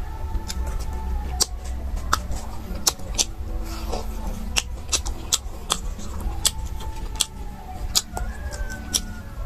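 Close-miked eating of boiled meat off the bone: irregular wet clicks and smacks of chewing, several a second, over a low steady hum.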